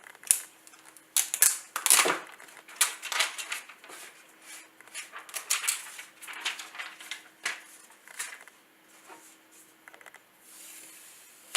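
Retail box and its plastic wrap being handled and opened by hand: irregular crinkling, rustling and scraping of plastic and cardboard, with a few sharper crackles.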